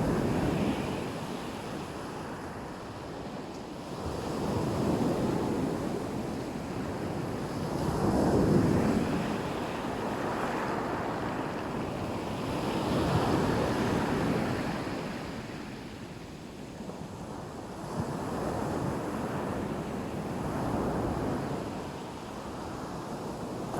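Black Sea waves breaking on the shore, the surf swelling and falling back every few seconds, with wind on the microphone.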